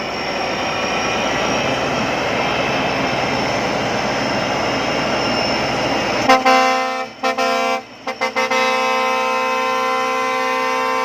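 Custom air horn fitted to a rice combine harvester, over the machine's running engine: about six seconds in the horn comes on sharply, gives a few short toots, then holds one long steady blast.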